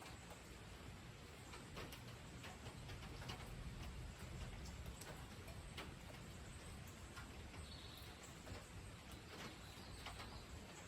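Rain during a storm: scattered drops ticking irregularly over a low, steady rumble, with a brief faint bird chirp about eight seconds in.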